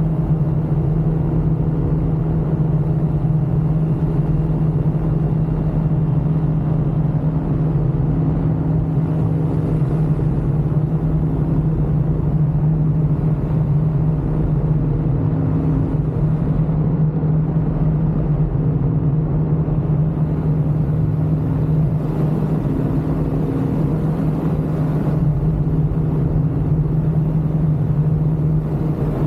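Ultralight aircraft engine and propeller running at a steady, constant drone in flight.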